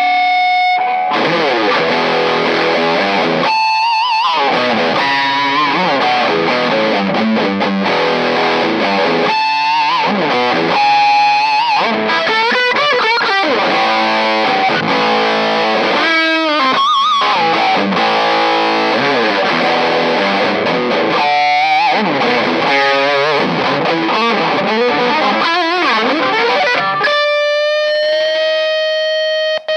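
A 1997 Korean-made Epiphone Les Paul Custom electric guitar played with heavy distortion through an amp. It plays a busy lead line with string bends and vibrato, then settles on one held note near the end.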